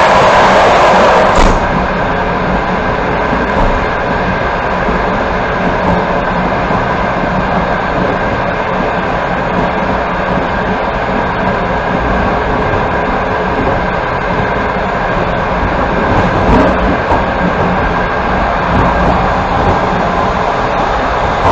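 Passenger train running at speed, heard from inside the carriage: a steady rumble of wheels on rails with a faint hum. A louder rush of noise in the first second and a half cuts off suddenly.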